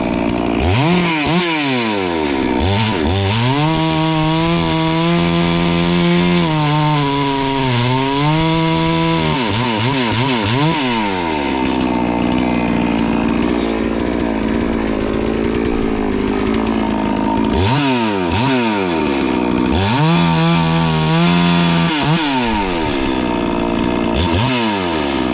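FarmMac F380W 72cc two-stroke chainsaw revved up and down again and again and held at high throttle. In a long middle stretch the pitch drops and blurs, as when the chain works through a log. The saw sounds a little loud to the owner, who suspects the exhaust.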